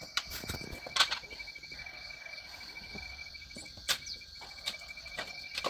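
Crickets chirping in a steady, fast pulsing trill, with a few sharp clicks or knocks about one, four and five and a half seconds in.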